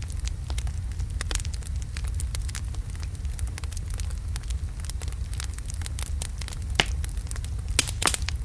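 Wood logs burning in a fireplace: a steady low rumble of the fire with scattered crackles and sharp pops, a couple of louder pops near the end.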